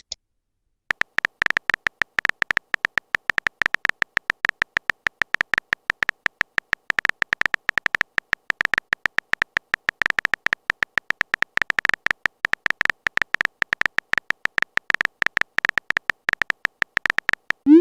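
Rapid, uneven electronic typing clicks, each a short high tick, running on without pause from about a second in: a text-typing sound effect.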